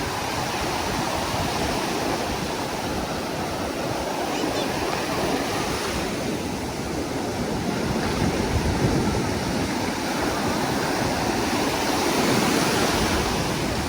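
Ocean surf washing steadily onto a beach, swelling slightly a few times.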